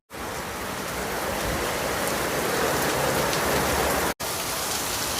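Heavy tropical downpour: a dense, steady hiss of rain pouring down, which cuts out for a moment about four seconds in.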